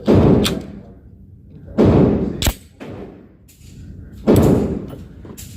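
9mm handgun firing, three loud shots about two seconds apart, each with a long ringing decay, and a sharper crack in between.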